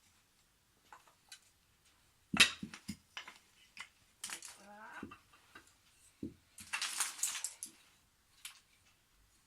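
Wooden IKEA toy train track pieces knocking and clattering as they are handled and fitted together, with a sharp knock about two seconds in and a longer rattle of pieces near the end.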